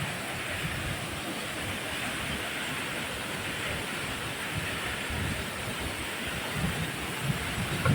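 Casaroro Falls waterfall rushing: a steady, even roar of falling water, with low irregular rumbles underneath.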